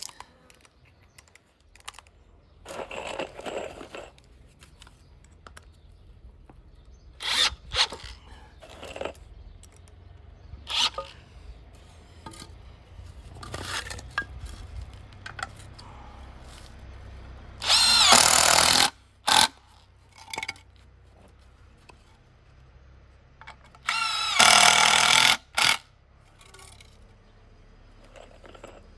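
Power drill running in short bursts, the way it goes when driving screws into timber framing; two longer, louder runs come in the second half.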